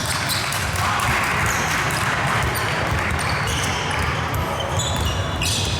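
Gym sound of a basketball game: a ball bouncing on the court over a steady murmur of players and spectators.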